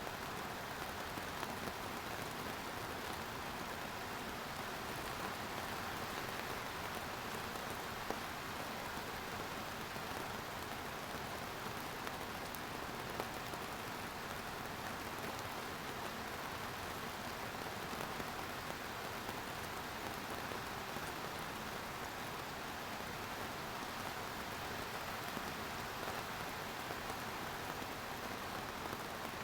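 Steady rain falling, a dense even hiss of drops on surfaces with a few individual drops ticking out now and then.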